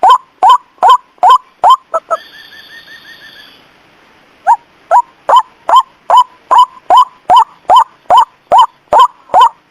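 White-breasted waterhen (ruak-ruak) lure call: a sharp, loud note repeated about two and a half times a second. About two seconds in, the calling breaks off, and a quieter, rapid trill runs for about a second and a half. After a short pause, the repeated calls start again.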